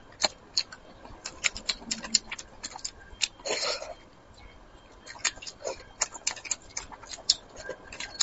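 Close-miked eating of spicy braised fish: irregular wet chewing and lip-smacking clicks, with one longer, louder mouth sound about three and a half seconds in.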